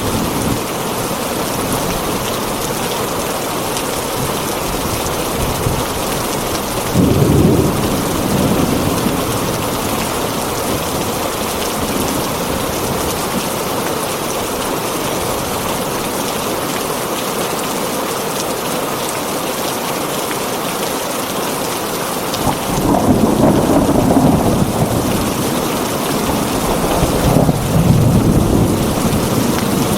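Heavy rain drumming steadily on a tin roof, with low rolls of thunder about seven seconds in and twice more in the last third.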